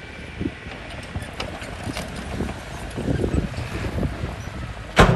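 Bulldozer working with a low engine rumble and scattered knocks, then one loud bang near the end.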